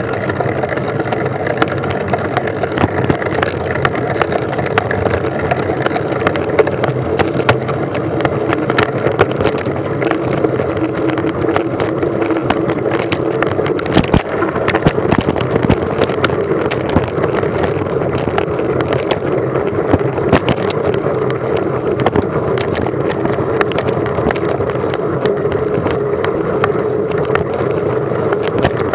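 A vehicle moving steadily along a rough track, with a constant running noise, many small rattles and clicks, and wind on the microphone.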